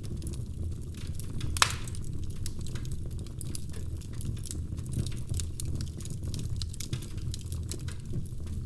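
Wood fire crackling in a fireplace: many small irregular snaps over a steady low rumble, with one loud pop about one and a half seconds in.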